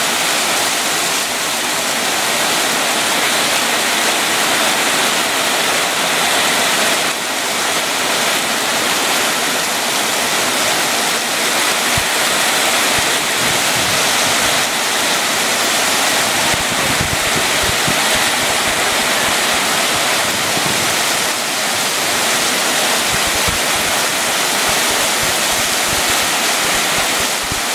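Heavy rain pouring down, a steady loud rushing hiss.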